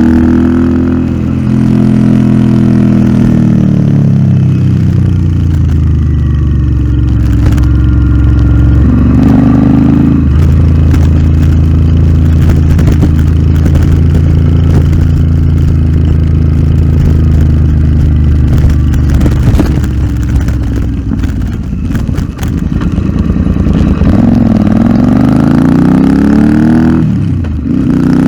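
Royal Enfield Interceptor 650's parallel-twin engine through a Nuke aftermarket exhaust while riding: the engine note drops off at first, holds steady through the middle, and revs up and falls again near the end.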